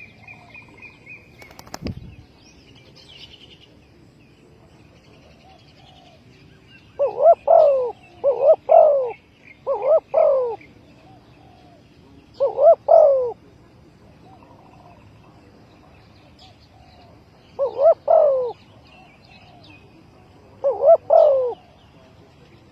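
Spotted dove cooing: six phrases in a loose series, each a short note followed by a longer one, with small birds chirping faintly behind. A single sharp click comes about two seconds in.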